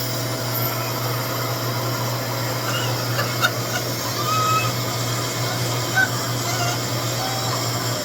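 RevAir reverse-air hair dryer running steadily on low heat: a continuous fan and motor hum with airflow, the wand sucking a section of hair into its tube, with a couple of faint clicks.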